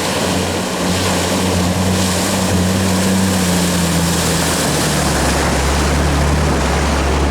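Off-road 4x4's engine running steadily under load, with constant rushing and splashing noise as it wades through water. The engine note shifts about five seconds in, and a deeper tone comes in.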